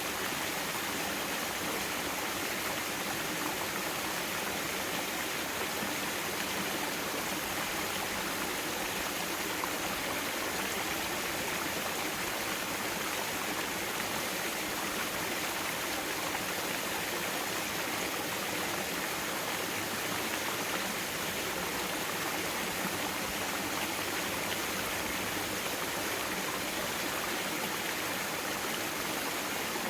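Mountain valley stream flowing, a steady, even rush of water over rocks.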